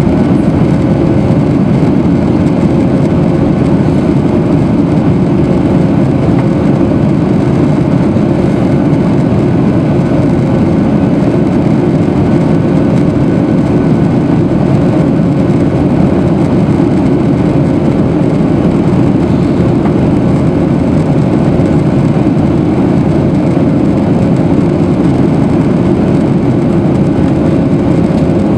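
Boeing 737-800's CFM56 jet engines heard from inside the cabin: a loud, steady low rushing noise with faint steady tones above it.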